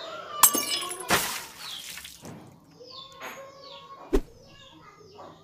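Small birds chirping repeatedly in the background. A sharp crack comes about half a second in, then about a second of rushing noise, and another short click a little after four seconds.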